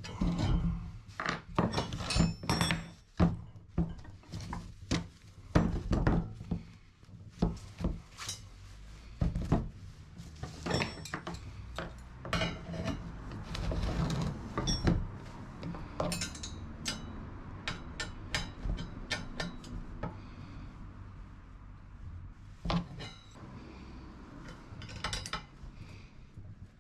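Metal parts clinking and knocking together in irregular strokes as they are handled, with a few louder knocks scattered through.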